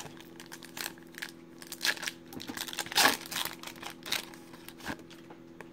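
Foil trading-card pack wrapper being torn open and crinkled: a run of short crackles, loudest about three and four seconds in, over a faint steady hum.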